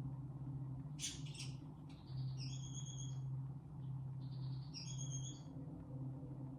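A steady low humming drone tone, like a meditation frequency track. About a second in comes a short hissing rattle. Two high, bird-like chirping calls follow, one about two and a half seconds in and one near five seconds.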